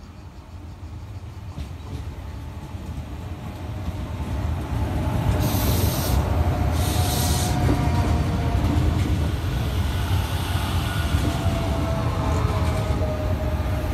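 Renfe series 447 electric commuter train pulling in along the platform: a low rumble that grows louder as it approaches over the first five seconds, then runs close by. Two short hisses come about five and a half and seven seconds in, and a faint whine slowly falls in pitch in the second half.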